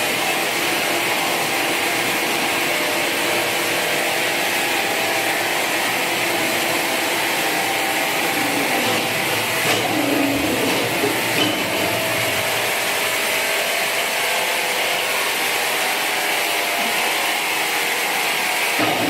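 Sawmill machinery running with a steady mechanical noise, with a few faint knocks about halfway through.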